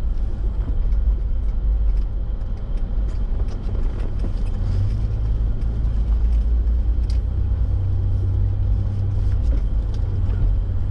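Toyota 4x4 driving slowly over packed snow, heard from inside the cab: a steady low rumble of engine and tyres, with faint scattered ticks.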